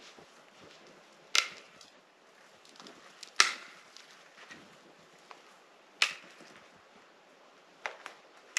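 Wood being chopped for a campfire: six sharp cracking strikes at uneven intervals, the last three close together near the end.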